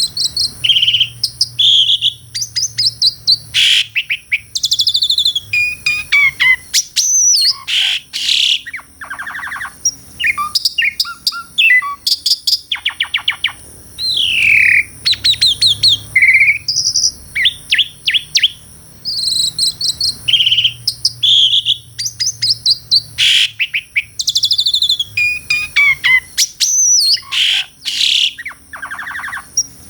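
Asian pied starling (jalak suren) singing a long, varied song without pause: rising and falling whistles, rapid clicking trills and harsh chatters. A steady high-pitched tone runs beneath it.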